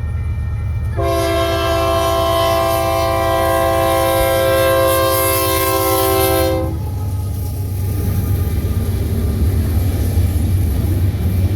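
Diesel locomotive air horn sounding one long chord of several notes, lasting about six seconds, over the low rumble of the locomotive. When the horn cuts off, the rumble of the passing train carries on and grows rougher.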